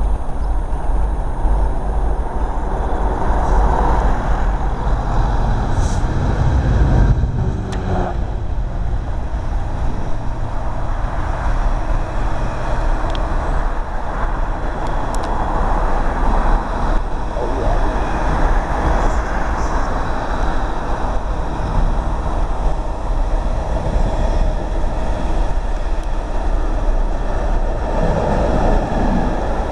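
Long high-output ballast cleaner engineering train, led by a Class 66 diesel locomotive, passing beneath: a heavy diesel rumble swells about seven seconds in as the locomotive goes under, then a steady rumble and clatter of wagon wheels on the rails.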